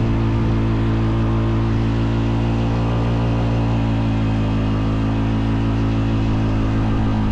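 Honda Foreman 520 ATV's single-cylinder engine running at a steady, even speed while towing another ATV.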